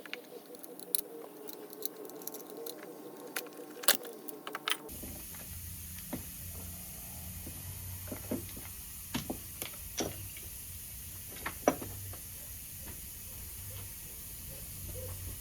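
Scattered light clicks and taps of hand tools and metal parts being handled during work on an ATV. After an abrupt change about five seconds in, a steady hiss and a low hum run under them.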